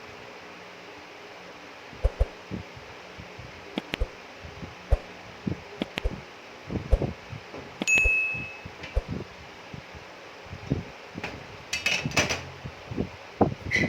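Metal parts being handled and set down: scattered knocks and clinks, with one short ringing metallic ping about eight seconds in and a flurry of clinks near the end, over a steady low hum.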